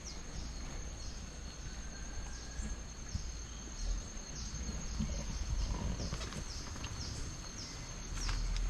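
A steady high-pitched insect drone, pulsing about twice a second, over a low wind rumble on the microphone.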